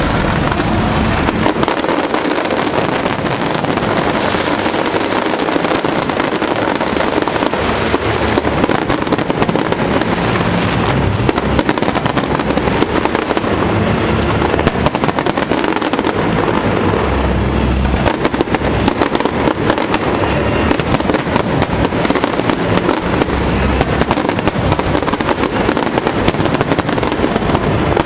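A large aerial fireworks display going off in a dense, continuous barrage: crackling bursts with repeated deep booms, starting abruptly and keeping up throughout.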